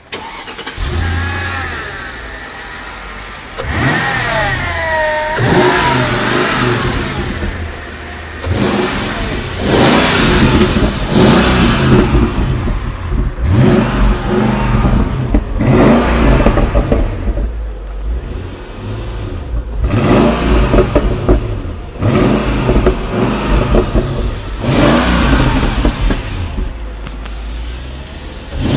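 Mercedes-Benz CLS 55 AMG's supercharged 5.4-litre V8 being revved repeatedly, about ten rises in engine speed, each falling back to a steady idle between blips.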